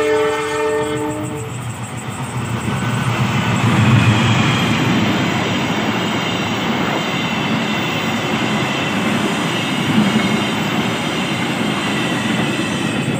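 A passenger train's horn sounds for about a second and a half, then the train passes close by: a loud, steady rumble of wheels running on the rails, loudest about four seconds in.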